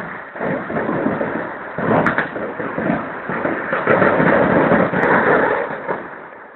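Fireworks: a dense, rapid crackle of many firecrackers going off together, with a few sharper cracks among them, dying away near the end.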